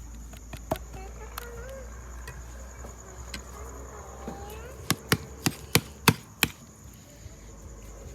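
Steady high insect trill, like crickets, throughout, with a quick run of six sharp knocks, about four a second, some five seconds in.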